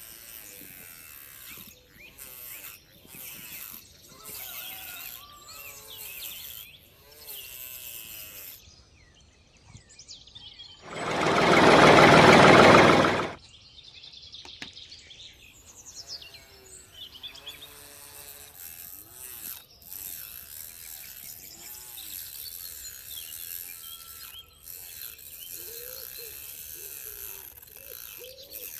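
Birds chirping against a steady outdoor background. About eleven seconds in, a small motor-driven tool runs loudly for about two seconds, then stops suddenly.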